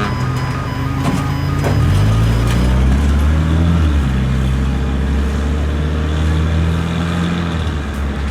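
A modified car's engine and loud aftermarket exhaust driving off, the revs stepping up about two seconds in and then holding steady. A few sharp clicks sound in the first couple of seconds.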